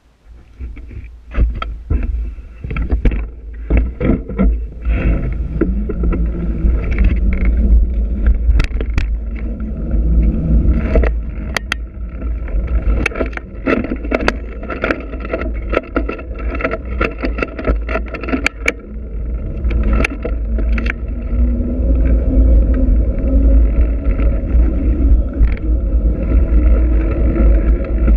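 Trek X-Caliber 8 mountain bike being ridden: a steady rolling din with a heavy wind rumble on the microphone and many sharp clicks and rattles from the bike.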